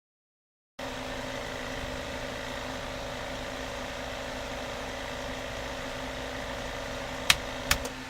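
Homemade BGA rework station running during a heating profile, a steady hum with a low tone. Two sharp clicks come near the end, and one tone in the hum stops just after them.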